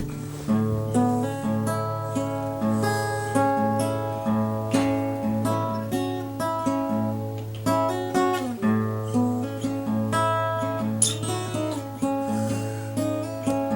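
Acoustic guitar music: single notes picked at a steady, even pace over a low bass note held underneath.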